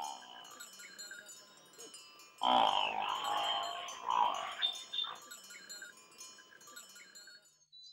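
Small bells on a passing herd of water buffalo tinkling and clinking, fading out near the end. A loud drawn-out call rises over them about two and a half seconds in and lasts a couple of seconds.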